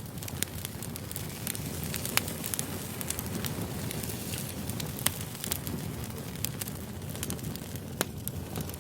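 Wood campfire burning, crackling, with sharp pops every second or so over a steady low noise.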